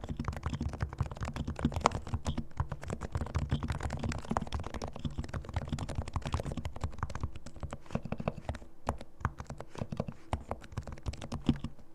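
Fast typing on a Realforce R2 silent keyboard with fully lubricated Topre electrostatic capacitive switches: a dense stream of keystrokes with a deep low end, thinning briefly near the nine-second mark and stopping just before the end.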